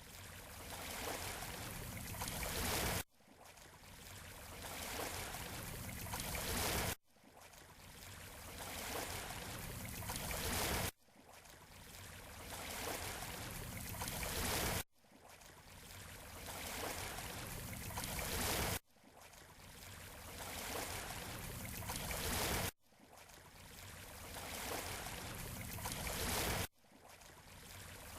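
Waves washing on a beach shore, a steady rush of water noise. Each swell builds for about four seconds and then cuts off abruptly, over and over at even spacing.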